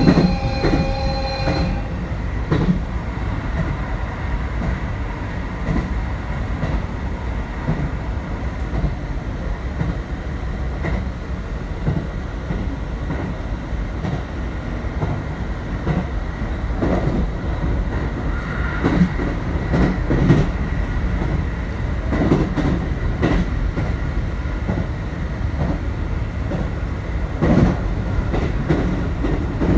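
JR Hokkaido 721-series electric train running, heard from inside the leading car: a steady low rumble with scattered knocks of the wheels over the track. In the first couple of seconds a high, many-pitched squeal rings steadily and then cuts off suddenly.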